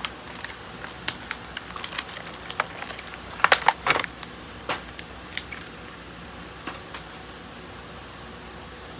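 Light clicks and taps of a small 1/64 scale diecast model truck being handled, with a cluster of louder clicks about three and a half seconds in; after about five seconds only faint room noise remains.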